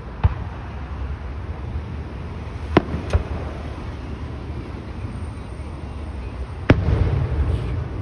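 Fireworks bursting overhead. There is a sharp bang about a quarter second in, two more close together near three seconds, and the loudest near seven seconds, which trails off into a rolling rumble.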